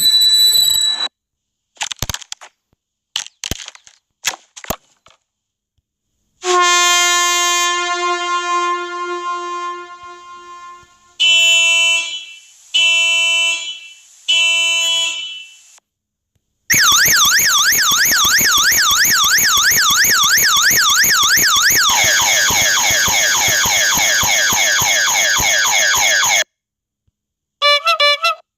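A run of electronic annoying-noise sound effects: a few sharp clicks, a long horn blast that fades, then three short honks. An electronic siren follows, sweeping rapidly up and down, then switching to a faster, different warble before cutting off, with a short burst of sound near the end.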